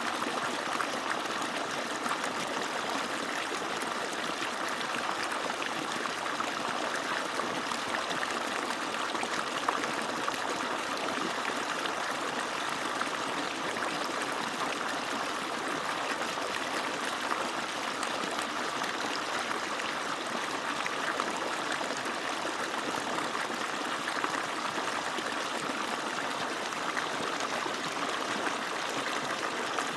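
Water from an agricultural pump's outlet pouring and splashing in a steady, unbroken rush.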